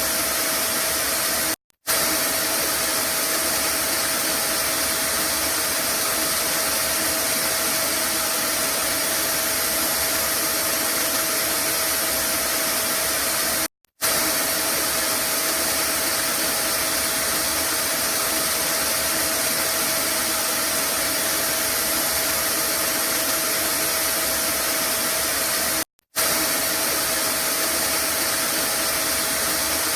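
Vacuum cleaner motor running at a steady pitch, a constant airy whoosh with a held hum, used as white noise. It cuts out for a split second three times, about twelve seconds apart.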